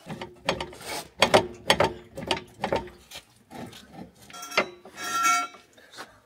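Hand ratchet wrench being worked on a leaf-spring bolt, a quick run of clicking strokes that thins out, then a metallic clank that rings briefly about five seconds in.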